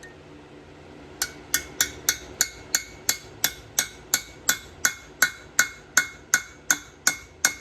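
Hammer striking a chisel set in the tail shaft bushing of a Ford toploader four-speed transmission, splitting the old bushing to drive it out. Steady blows about three a second, each with a short metallic ring, starting about a second in.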